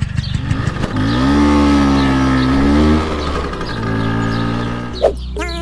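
Tractor engine running, first with a fast putt-putt, then revving up about a second in, holding and easing back down. Near the end there is a sharp click and music comes in.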